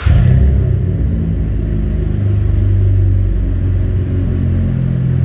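A 2015 Chevy Impala's engine catching at once, with the muffler and resonators deleted and two Super 40 mufflers fitted in their place. It then settles into a steady, deep idle through the modified exhaust.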